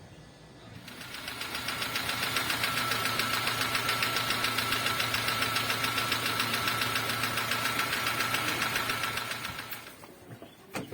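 Opel Astra F engine running with a loud, fast, even ticking knock from the valve train, typical of a faulty hydraulic lifter. It fades in about a second in and fades out near the end.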